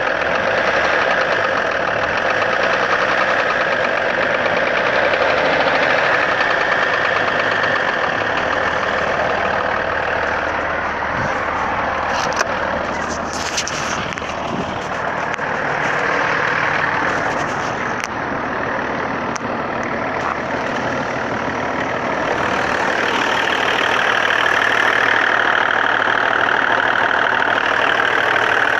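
BMW M51 turbodiesel straight-six running at idle with a persistent knock that seems to come from between the engine and the manual gearbox and is felt in the clutch pedal. The cause is unknown: replacing the gearbox, flywheel, clutch and vacuum pump and working on the fuel system has not cured it.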